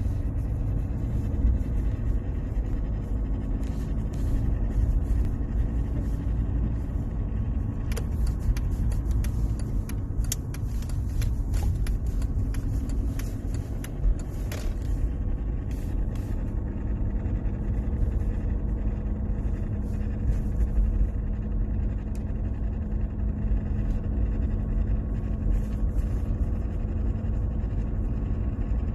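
Mercedes-Benz W203 C-Class on the move, heard from the cabin by the gear selector: a steady low rumble with a faint hum, and a run of clicks and rattles from about 8 to 15 seconds in. The strange noise comes from the parking brake cable catching on the spinning propshaft where its retaining clips have broken.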